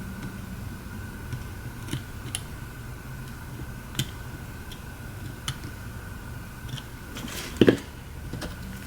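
Small hand tools clicking and snipping during fine repair work, a handful of scattered sharp ticks with a louder quick cluster of clicks about seven and a half seconds in. A steady low hum runs underneath.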